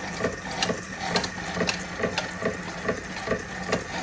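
Empire B42 toy steam engine driving Wilesco fairground toys on spring belts, running with a regular mechanical clicking: a sharp click about twice a second, lighter ticks between, over a steady low hum. It is running slowly, with steam pressure still building.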